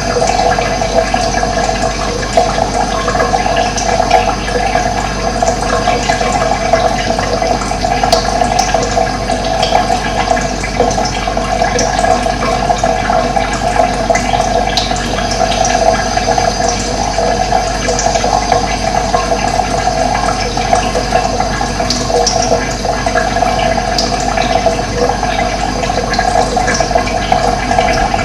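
Running water rushing steadily, with faint short bird chirps scattered above it.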